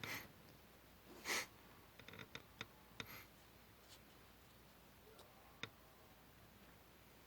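Paper being handled during paper-model work: two short rustles, the second and louder about a second after the first, then a scatter of small clicks and taps.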